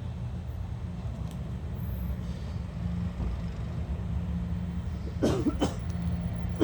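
Diesel locomotive engine running with a steady low drone, with two short sharp sounds about five seconds in and another at the very end.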